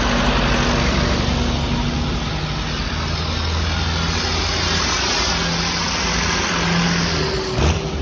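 Tractor engines running steadily, with a single sharp knock near the end.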